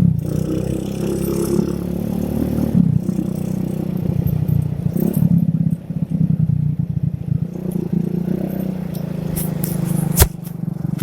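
Yamaha Vega R underbone motorcycle engine running while riding, picked up by a phone in a shirt pocket with cloth rubbing on the microphone. The engine note dips briefly about six seconds in, and there is a sharp click near the end.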